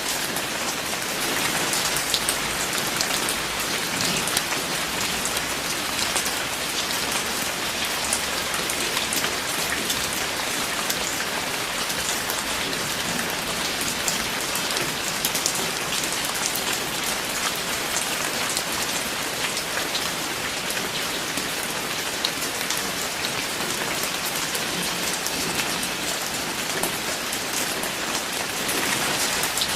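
Steady rain falling, a dense even hiss with the close patter of individual drops striking a surface.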